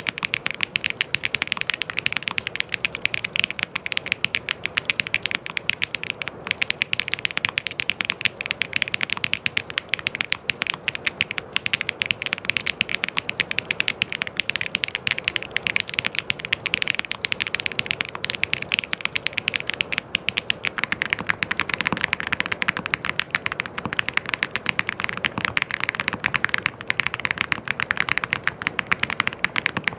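Fast, continuous typing on a mechanical keyboard: a dense stream of crisp key clicks.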